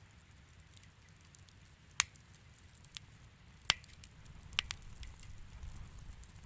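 Fire in a fireplace crackling softly over a low rumble, with a few sharp pops between about two and five seconds in.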